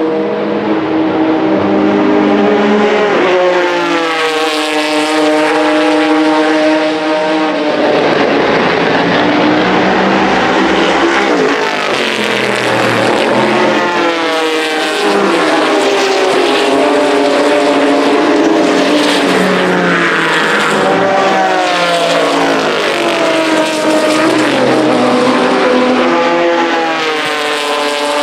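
Vintage race car engines at full throttle on track, several cars in succession and at times overlapping, the pitch climbing through each gear and dropping at each shift.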